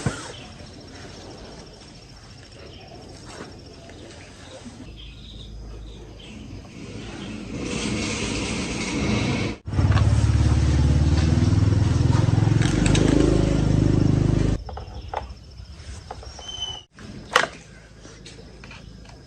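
Stihl chainsaw's two-stroke engine running in edited bursts: a rumble building for a few seconds, then a loud, steady run of about five seconds in the middle that cuts off suddenly.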